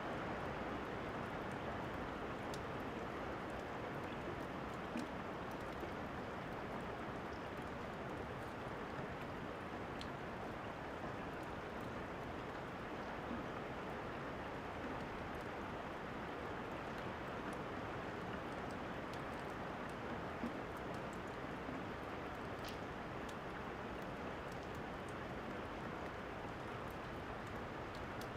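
Steady rain falling, a constant even hiss, with a few sharp crackles and pops from a wood fire scattered through it.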